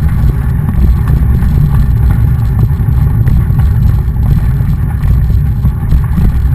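Wind buffeting the microphone of a camera on a moving mountain bike: a loud, steady low rumble, with faint knocks from the bike over the ground.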